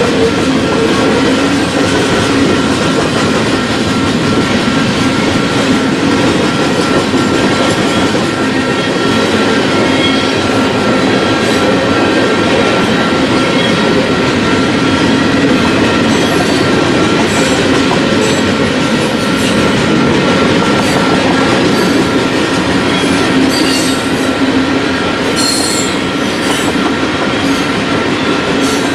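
Loaded freight train of tank cars and covered hoppers rolling past at steady speed, its steel wheels rumbling and clacking on the rails, with a steady thin wheel squeal over the top. A few short sharp high clicks come near the end.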